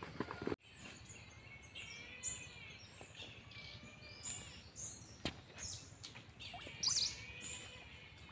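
Birds chirping and calling repeatedly over faint background hiss, with one sharp click a little after five seconds in.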